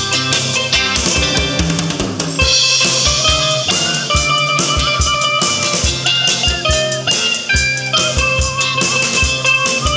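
Live acoustic band playing an instrumental break: plucked guitar, mandolin and three-string cigar box guitar over a drum kit with a steady kick-drum beat. A wavering lead melody line comes in about four seconds in.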